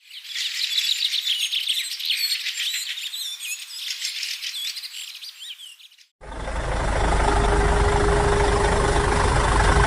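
Many small birds chirping and twittering for about six seconds. After a sudden cut and a short gap, a steady, loud rumble with one constant whine takes over.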